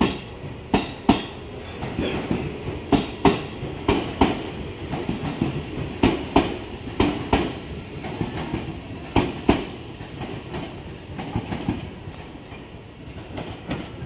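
JR 313 series electric train pulling out, its wheels clacking in pairs over rail joints and points under a steady running rumble, the clacks growing fainter near the end.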